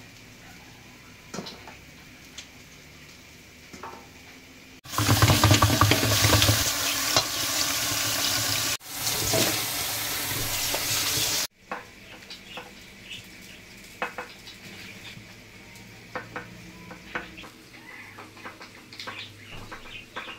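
Food frying in a hot pan. It sizzles loudly for about six seconds in the middle, with a brief break, and quieter clinks and scrapes of stirring come before and after.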